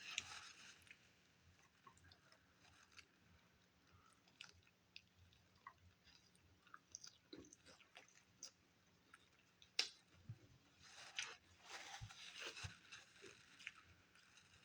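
Faint chewing of a taco close to the microphone: scattered small crunches and wet mouth clicks, with a sharper crunch about ten seconds in and a short run of denser crunching just after.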